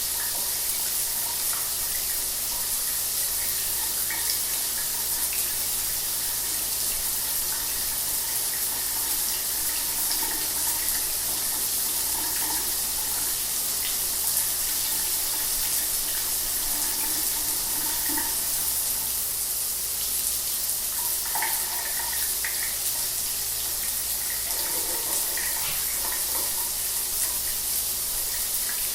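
Shower water running steadily, an even spray with small splashes scattered through it.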